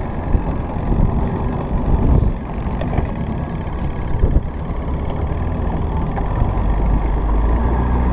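Small boat's motor running, with a few knocks in the first half. It settles into a steady low hum that grows louder over the last couple of seconds.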